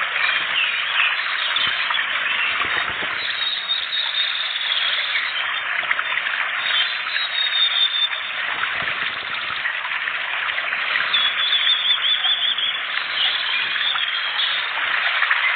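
Dense, unbroken bird chatter: many rapid, high chirps and calls overlapping, as in a songbird masteran training recording.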